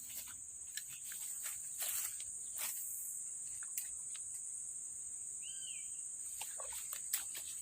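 Steady high-pitched drone of insects, crickets or cicadas, with scattered short clicks and one brief bird chirp about five and a half seconds in.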